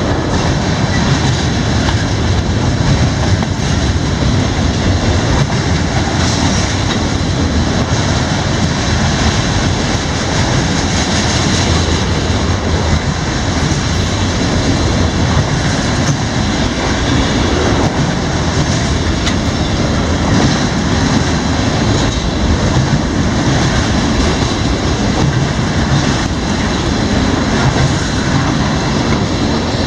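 CSX freight train rolling past, a loud, steady rumble and rush of cars on the rails.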